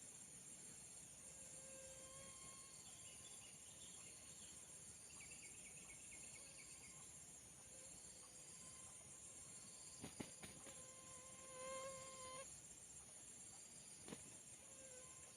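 Faint, steady high-pitched chorus of insects, with a few faint bird call notes over it and two soft clicks, one about ten seconds in and one near the end.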